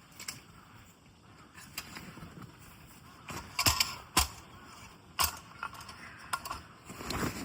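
A handful of sharp, irregular knocks and cracks, the loudest a little past the middle, over a faint rustling.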